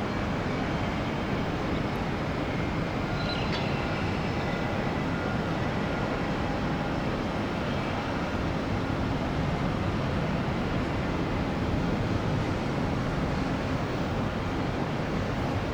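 Airbus A350 airliner's Rolls-Royce Trent XWB jet engines on landing, a steady rushing noise that holds at an even level.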